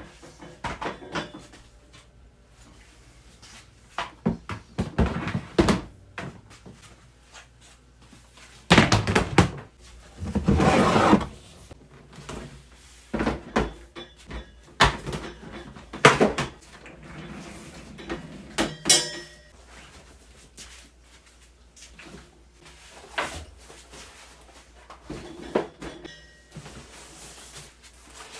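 Irregular knocks, thunks and clicks of camping gear being handled and set down, with a few longer rustling or scraping stretches.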